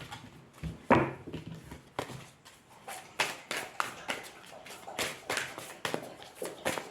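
Tarot or oracle cards being shuffled and handled: a run of quick, sharp card clicks and taps, several a second, growing denser after about three seconds.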